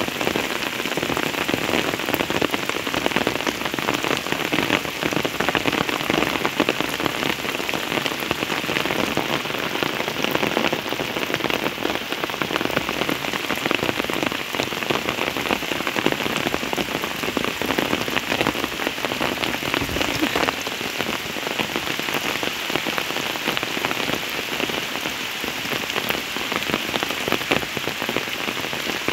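Steady heavy rain falling, many individual drops pattering on hard surfaces.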